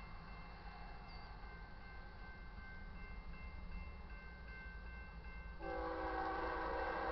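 Diesel locomotive air horn sounding a chord of several notes, starting suddenly about five and a half seconds in, over the low rumble of an approaching freight train.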